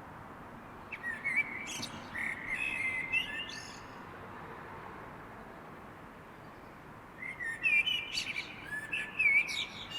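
A songbird singing two quick, warbling phrases of high whistled notes and trills, about a second in and again about seven seconds in, over a faint steady hiss.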